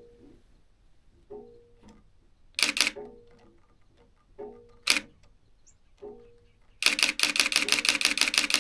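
Digital SLR shutter (Nikon D7000) firing: single shots about two and a half and five seconds in, then a rapid continuous burst of shutter clicks starting near the end. Faint short tonal notes recur in between.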